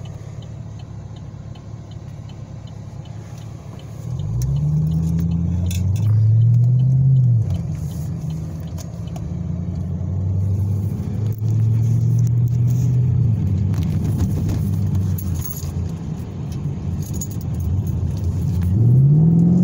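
Camaro's 6.2-litre V8 heard from inside the cabin: a low steady drone, then about four seconds in the revs climb under hard acceleration, peak and drop at a gear change, and climb again. It settles to steady cruising and rises once more under acceleration near the end.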